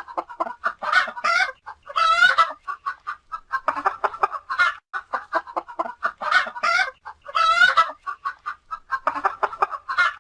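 Domestic hen clucking in quick runs of short notes, broken every second or two by louder, drawn-out squawking calls.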